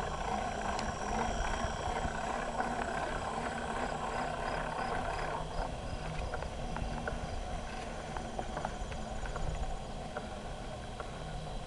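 A bicycle riding along a trail, heard from a handlebar-mounted camera: a steady rumble of tyres and wind with frequent small rattles and clicks from the bike. Faint insects chirp in an even, rapid pulse behind it.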